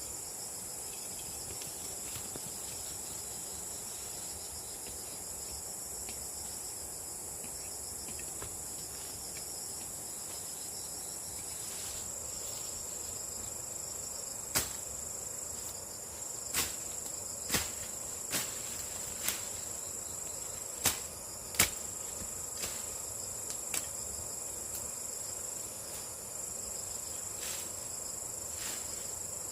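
Steady high-pitched chorus of insects trilling. Partway through comes a series of about nine sharp knocks, irregularly spaced over some ten seconds.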